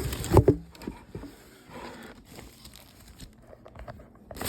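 Cardboard box and packaging being handled as an appliance is lifted out: a couple of knocks about half a second in, then faint crinkling and rustling.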